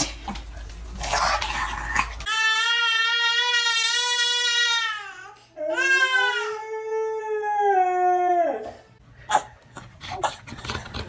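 A dog howling: two long, drawn-out howls, the second sliding slightly down in pitch at its end.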